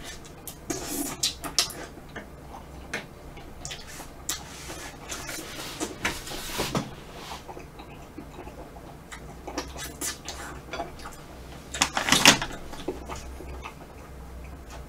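Close-up eating sounds of a person chewing a mouthful of vanilla ice cream and mochi (rice-cake) ice cream: irregular wet smacks and clicks. The loudest cluster comes about twelve seconds in.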